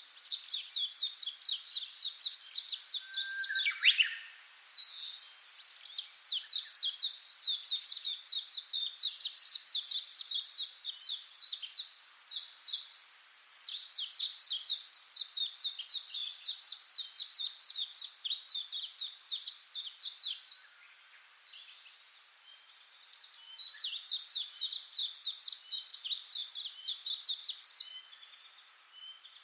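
Small birds singing in long runs of rapid, high chirping trills, several seconds each with short pauses between. One falling whistle comes about four seconds in.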